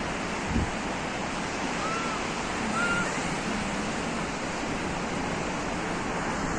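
Sea surf washing steadily onto a beach, a constant rush of breaking waves. A short thump about half a second in, and two faint brief high calls around two and three seconds in.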